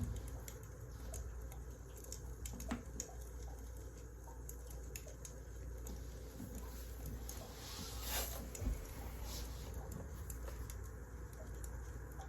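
Wood fire crackling: scattered small pops and snaps over a low steady rumble, with a louder rush of crackle about eight seconds in.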